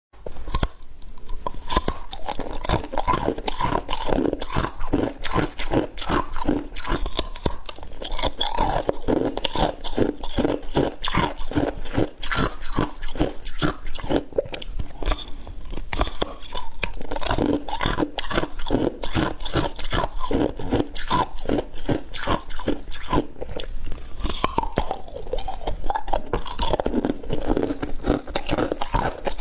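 Close-up crunching of frozen ice being bitten and chewed, a rapid run of crisp crunches that goes on without a break.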